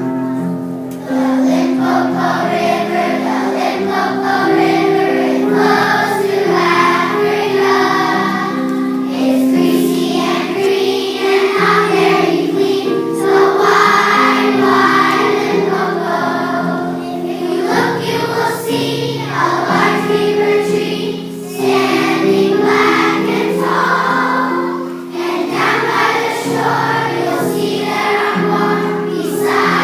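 A group of children singing a song in chorus over instrumental accompaniment.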